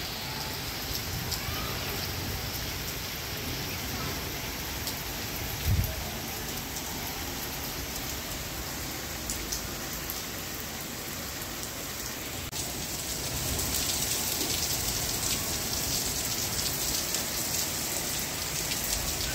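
Steady rain falling on a tiled rooftop terrace, with one brief low thump about six seconds in. The rain grows a little louder just past halfway.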